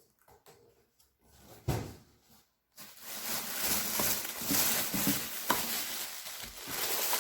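Rustling and crinkling of packaging being handled during unboxing, with a few light clicks; it starts about three seconds in after a near-quiet stretch.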